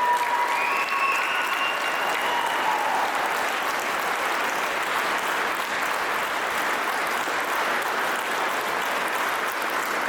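Large crowd applauding steadily, with a held high-pitched tone over the clapping for the first three seconds; the applause eases slightly near the end.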